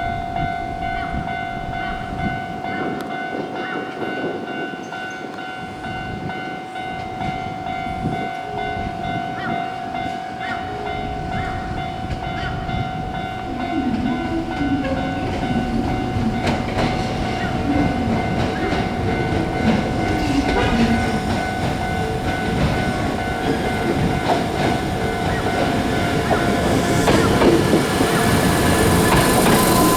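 Hankyu 5000 series electric commuter train approaching and pulling into the station, its rail noise growing steadily louder toward the end, over steady high-pitched tones.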